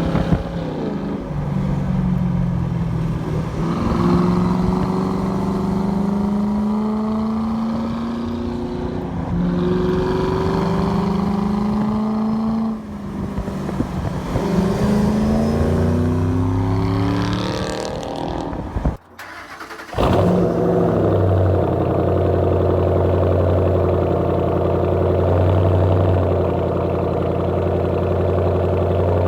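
Ford Mustang exhaust through a Roush Extreme axle-back system: the engine is revved and pulled several times, its deep note rising and falling in pitch. After a brief break a little past halfway, it runs at a steady idle.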